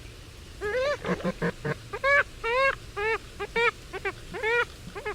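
Purple swamphen calling: a run of repeated short calls, each rising then falling in pitch. A quick cluster of shorter notes comes about a second in, then the calls settle to about two a second.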